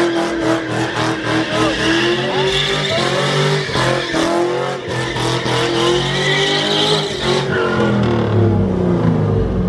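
A car engine held at high revs with its tires squealing, as in a burnout or donuts, the engine note wavering up and down; it cuts off about seven and a half seconds in, leaving a lower engine sound.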